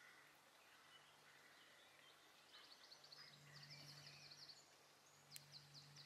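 Near silence: faint outdoor ambience with distant birds singing in quick trills, twice, from about halfway through, over a faint steady low hum, and one sharp tick near the end.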